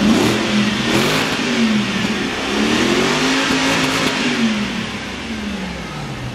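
Range Rover Sport engine revved hard, its note rising and falling twice: a short swell at the start, then a longer climb that peaks in the middle and dies away near the end.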